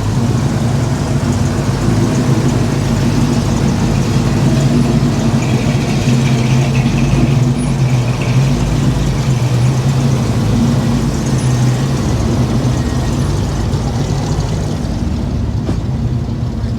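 A motor vehicle's engine running steadily close by, a loud, even drone with a low hum that eases off slightly near the end.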